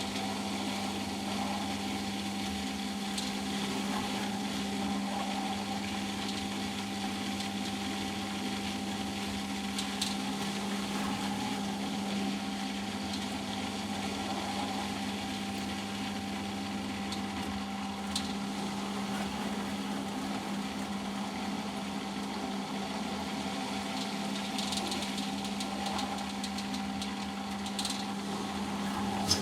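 Eudora Sparmeister 702 washing machine spinning at a steady speed during an intermediate spin, its motor and drum giving an even, unchanging hum. A few faint clicks sound over it.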